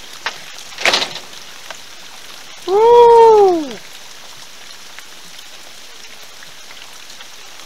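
Steady rain falling, with two sharp clicks in the first second. About three seconds in comes a loud pitched tone lasting about a second, which rises slightly and then falls away.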